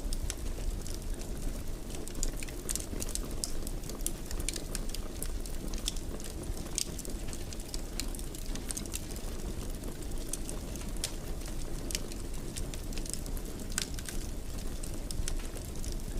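Fire in a fireplace crackling: frequent irregular small pops and snaps over a steady low rumble.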